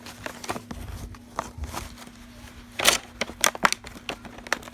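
Toy packaging being handled and worked open by hand: a run of crinkling, crackling and small clicks of cardboard and plastic, with a louder rustling burst about three seconds in.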